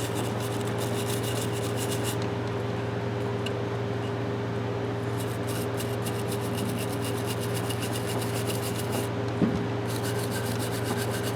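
Rapid, even rubbing strokes on the rusty metal of an adjustable wrench as it is cleaned with carburetor cleaner and WD-40. The strokes come in three spells, with a small knock shortly before the last, over a steady low hum.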